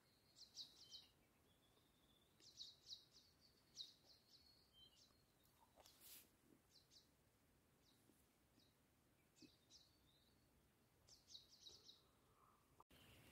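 Faint bird calls: short runs of high chirps coming every second or two over quiet morning stillness.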